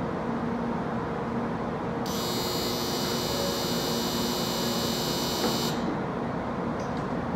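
Electronic departure buzzer on a Shinkansen station platform, ringing steadily for nearly four seconds from about two seconds in and cutting off suddenly, over the steady hum of a train standing at the platform.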